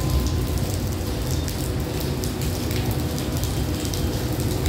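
Steady low rumble and hum of a stationary diesel passenger train idling at the platform, with scattered faint ticks over it.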